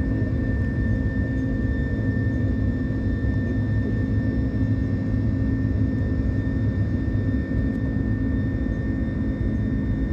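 Airbus A330 jet engines running steadily during the takeoff: a constant low rumble with a faint, steady high whine above it.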